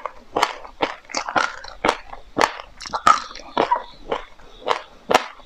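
Close-miked chewing of a mouthful of white sesame seeds with passionfruit pulp: sharp crunches, about two a second.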